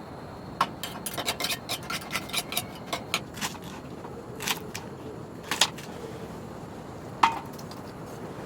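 Light clicks and clinks of cookware and utensils being handled: a quick run of them in the first few seconds, then three single clinks, the last with a short ring, over a steady background hiss.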